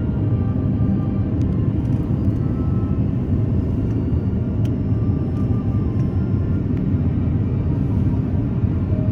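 Steady low rumble inside the cabin of an Airbus A330-300 airliner: engine and airflow noise heard from a passenger seat.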